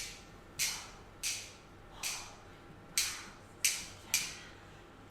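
A series of sharp, bright taps or knocks, about seven in five seconds, at uneven spacing.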